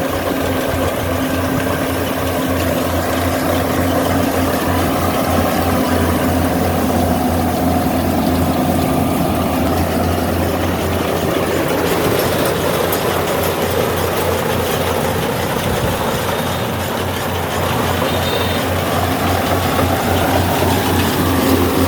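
Yanmar 70V rice combine harvester's engine running steadily, a continuous low hum with a fast even pulse.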